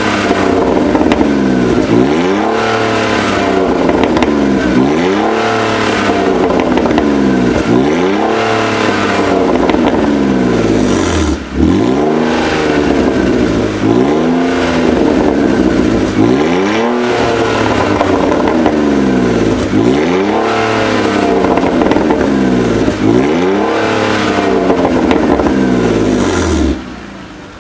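2000 BMW 320i E46's 2.0-litre inline-six, 150 hp, blipped again and again through an exhaust with the rear muffler removed, loud and raw. Each rev rises and falls, about one every one and a half seconds. The sound drops away sharply near the end.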